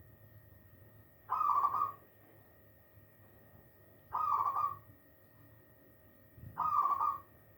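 Zebra dove (perkutut) calling three times, each a short warbling coo about half a second long, roughly two and a half seconds apart.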